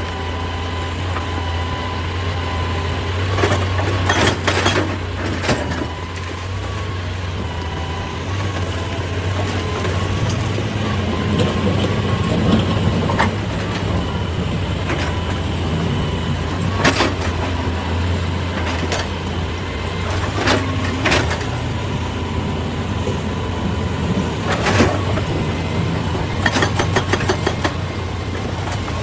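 Excavator's diesel engine running steadily with a steady whine over it, broken by sharp knocks and clatters, the loudest about four to five seconds in, and a quick run of rattles near the end.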